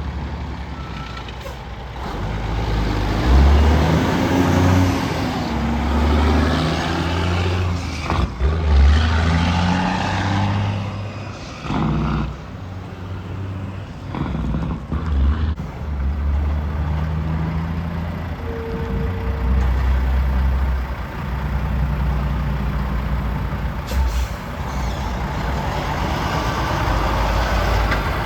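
Heavy trucks passing on a road, their diesel engines running with pitch that rises and falls repeatedly as they pull through the gears.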